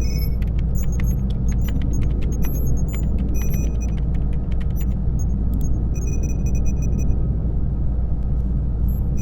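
Steady deep spaceship-cabin hum under irregular laptop keyboard clacks, with short high electronic bleeps scattered among them.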